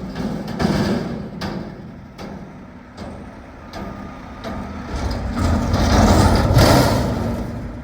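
Mack MRU front-loader garbage truck working: several sharp metal bangs in the first three seconds, then its engine revs up, loudest about six to seven seconds in, and eases off again.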